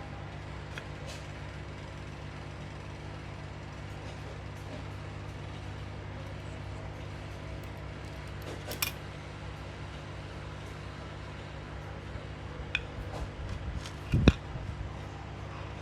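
A steady low hum with a few light clicks and taps from small metal clock parts being handled, and a sharper knock about 14 seconds in.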